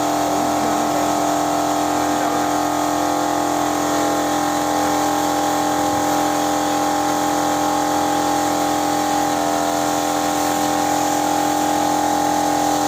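A machine running with a steady hum at an unchanging pitch, over a constant background of mechanical noise.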